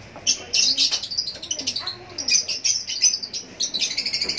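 Small caged birds chirping busily, many short high chirps overlapping one another.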